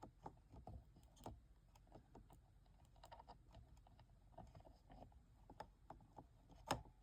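Faint, irregular clicking and tapping of fingers handling small plastic toy-aquarium parts while stretching rubber bands onto its gear wheels, with one sharper click near the end.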